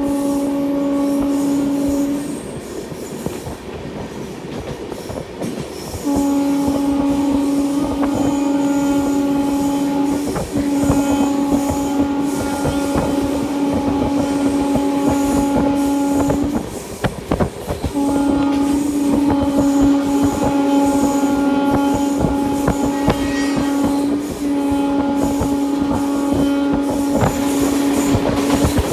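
Train horn sounding in long, sustained blasts with short breaks between them, over the steady rumble and clatter of coach wheels running on the rails.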